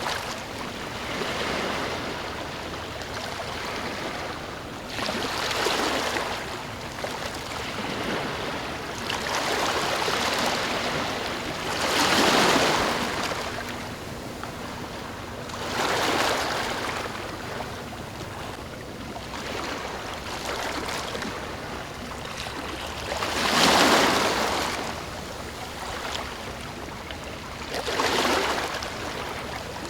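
Ocean waves washing onto the shore, swelling and falling back every few seconds over a steady hiss of surf. Two surges stand out as louder than the rest, one near the middle and one about two-thirds of the way through.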